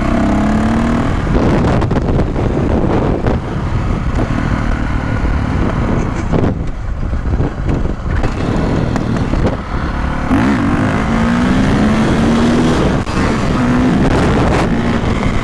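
Dirt bike engine running under way, picking up speed in short rising steps near the start and again about ten seconds in, as it is shifted up through the gears, over a steady rush of wind and road noise on the helmet-mounted microphone.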